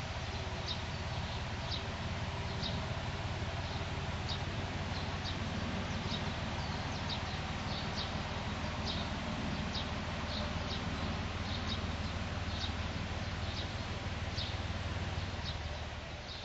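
A small bird chirping over and over, short high chirps about once or twice a second, over a steady low rumble and hiss of outdoor garden ambience.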